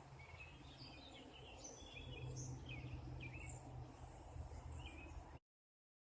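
Small birds chirping faintly, short scattered chirps over a low outdoor rumble, until the sound cuts off suddenly about five seconds in.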